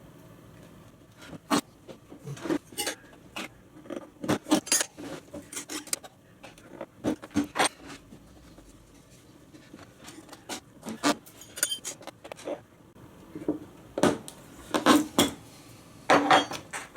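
Metal tyre levers clinking and knocking against a motorcycle wheel rim as the tyre bead is levered on, in irregular sharp clicks with short pauses between.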